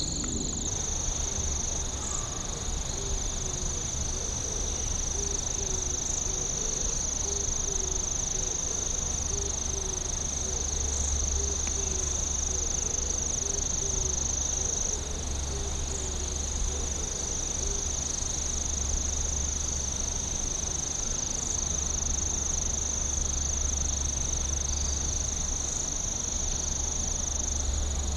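Night insect chorus: a continuous high, steady trill of crickets or similar insects, with a lower pulsing call repeating about twice a second through the first half or so, over a steady low rumble.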